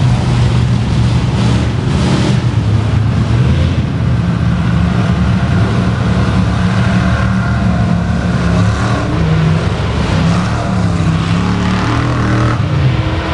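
Mud truck's engine running loud and steady, its pitch rising and falling as the throttle is worked.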